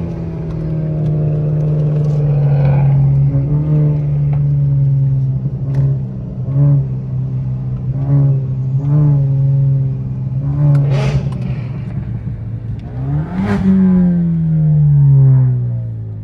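Car engine heard from the road, droning at a steady pitch with short dips. About thirteen seconds in it revs up quickly, then winds slowly back down.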